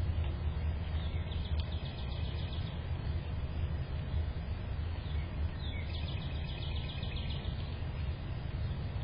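A small songbird's rapid trill, heard twice: about a second and a half in and again around six seconds. Underneath runs a steady low rumble.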